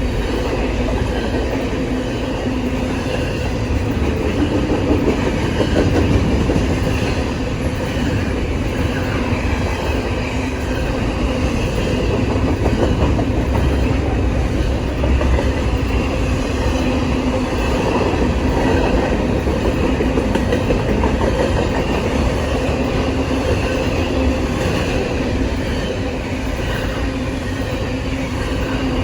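A train rolling past on the rails at a steady pace: a continuous, even rumble of wheels on track with a faint steady tone underneath.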